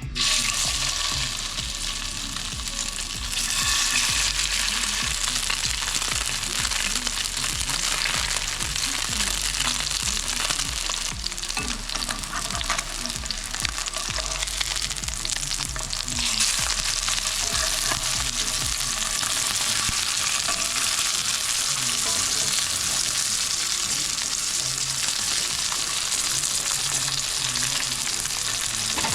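Fish sizzling as it fries in a hot pan, a steady crackling hiss that grows louder about three and a half seconds in.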